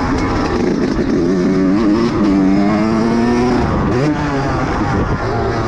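Motocross dirt bike engine revving as it is ridden. The pitch rises and falls with the throttle and holds fairly steady for a couple of seconds in the middle.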